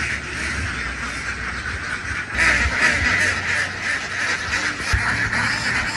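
A large flock of farm ducks quacking all at once in a dense, continuous din, growing louder a little after two seconds in.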